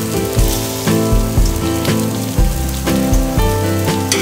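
Spring-cabbage pancake frying in oil, a crackling sizzle, under background music with a steady beat.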